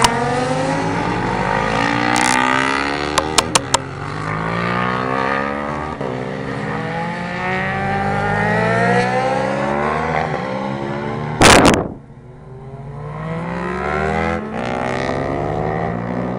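Racing motorcycle engines revving hard, their pitch climbing and dropping back again and again as they change up through the gears, several bikes overlapping. Four quick clicks come about three seconds in, and a short, loud rush of noise comes about eleven and a half seconds in.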